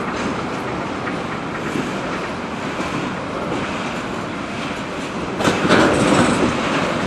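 Freight train rolling past, wheels running over the rails with a steady rumble. About five and a half seconds in comes a louder burst of clacking over the rail joints.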